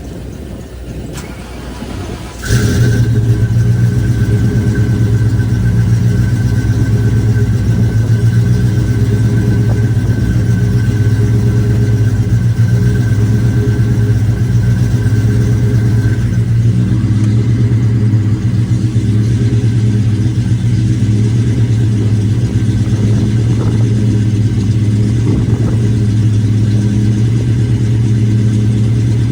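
An old car engine cold-starting in about 0°F weather. It catches suddenly about two and a half seconds in and then runs steadily, with a high steady whine over it that fades out about halfway through.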